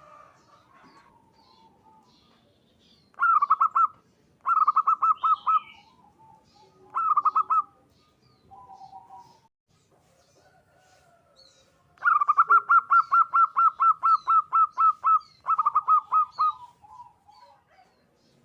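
Zebra dove (perkutut) singing its rapid, stuttering coo in repeated bursts of quick notes. The longest run starts about twelve seconds in and lasts some four seconds. Faint high chirps from other small birds come and go.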